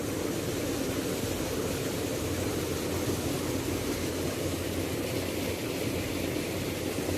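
Waterfall, the steady rush of falling water.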